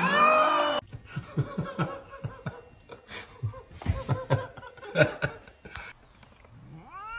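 A cat's meow cuts off in the first second. A person then laughs in short, uneven bursts for several seconds. Near the end a cat begins a long meow that rises in pitch and then holds.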